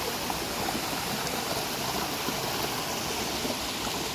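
Small waterfall on a mountain spring: steady rushing water.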